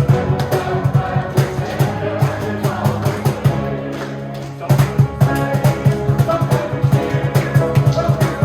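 A school choir singing with band accompaniment, with drums and guitar keeping a steady beat. About halfway through, the beat drops out under one held chord for a second or so, then comes back in.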